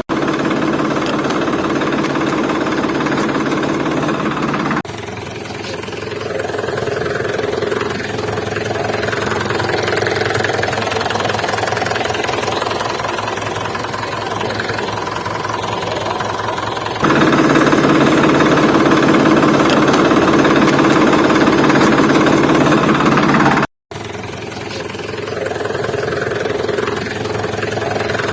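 Heavy vehicle engines running steadily, in several stretches joined by abrupt cuts, with a brief gap about two-thirds of the way through.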